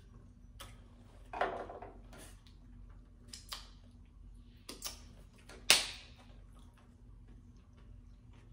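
Mouth sounds of someone chewing a thick mouthful of butter spread from a spoon: scattered wet smacks and clicks, the sharpest about six seconds in, over a faint steady hum.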